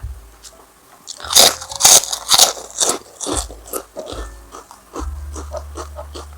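Loud, crisp crunching bites into crunchy food close to the microphone: a run of about four sharp crunches between one and three seconds in, then quieter chewing.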